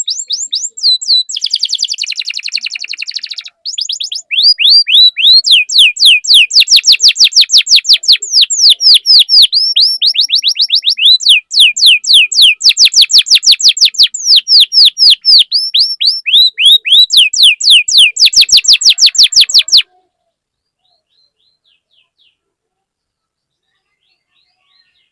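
Domestic canary singing a long run of rapid, repeated falling chirps, about five a second, with a brief buzzy trill near the start. The song stops abruptly about 20 seconds in.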